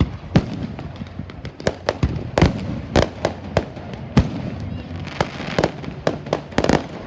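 Fireworks going off: an irregular run of sharp bangs and pops, a few each second, over a steady background rumble.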